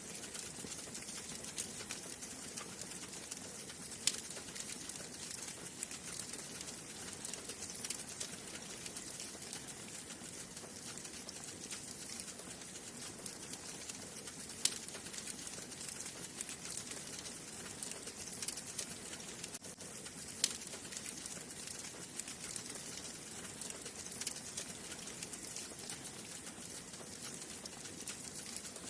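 Wood fire burning in a fireplace, crackling steadily over a soft hiss, with three sharper pops spread through.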